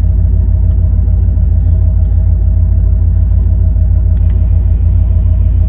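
Steady low rumble of a 1997 Ford F-350's 460 cubic-inch (7.5 L) V8 running, heard from inside the cab, with a couple of faint clicks about two and four seconds in.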